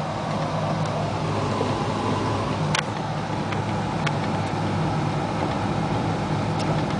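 1988 Isuzu Trooper's 2.6-litre engine running while driving, heard from inside the cabin: a steady low hum with road noise. A few sharp clicks come through it, the loudest about three seconds in.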